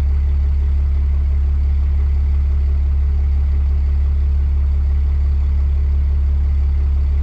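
A 6.7-litre Cummins turbodiesel idling steadily while it warms up. The owner suspects its high-mileage factory injectors are going bad.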